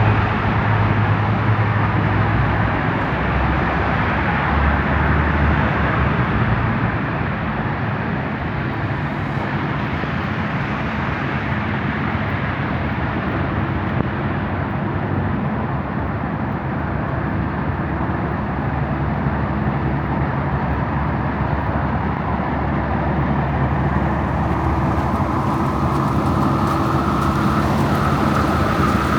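Strong gusting wind of about 40 mph rushing over the microphone, with city street traffic running underneath as a steady noise.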